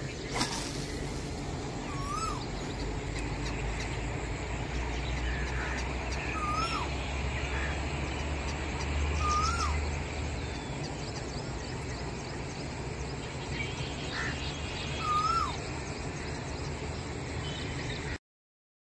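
A bird calling in the open, four short hooked whistles a few seconds apart, over a steady outdoor background with a low rumble.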